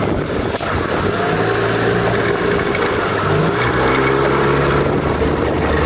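Small motorboat's engine running under throttle, its pitch changing about three and a half seconds in as the throttle is moved, with wind on the microphone.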